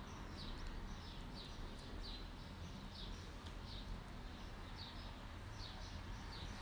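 A bird chirping repeatedly: short, high, falling notes about once a second, faint, over a low steady background hum.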